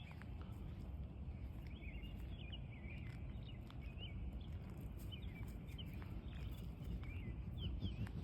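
Many birds chirping at once in short, high calls throughout, over a steady low rumble.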